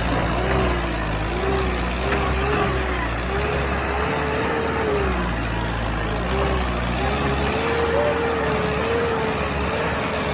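Tractor diesel engine running steadily, with a wavering whine that rises and falls in pitch over it.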